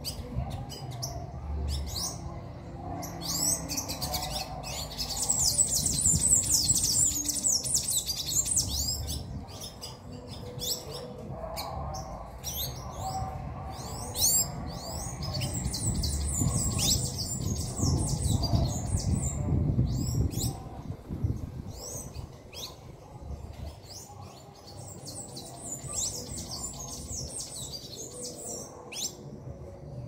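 Birds chirping in long runs of quick, high, sweeping notes, three main bouts of several seconds each, with scattered single chirps between them.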